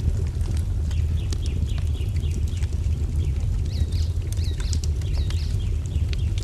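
Wood fire crackling, with a steady low rumble and scattered sharp pops, while small birds chirp; a run of quick repeated chirps comes about four to five seconds in.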